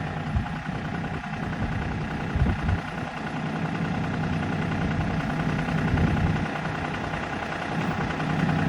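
New Holland Workmaster 40 four-wheel-drive diesel tractor engine idling steadily, with a few short low thumps over it.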